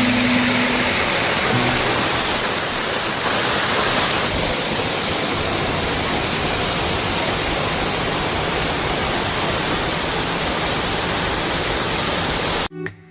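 Waterfall, its water pouring down in a loud, steady rush. The rush cuts off suddenly near the end.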